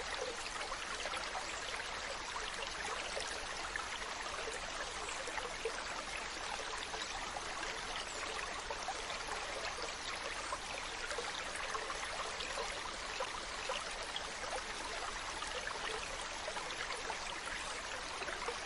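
Steady running-water noise, an even hiss with fine crackles throughout.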